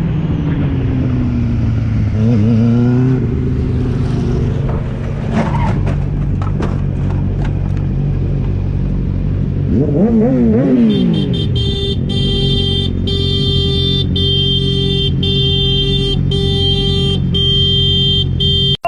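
A vehicle engine revving, its pitch rising and falling a couple of times. In the second half it turns into a steady, held, high-pitched drone with brief regular breaks.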